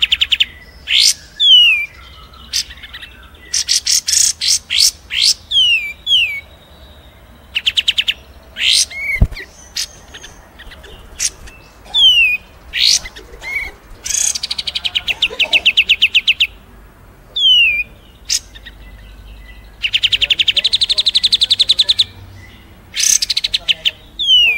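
Songbirds singing: long rapid trills of evenly repeated notes, the longest lasting about two seconds, alternating with short, sharply descending whistled notes.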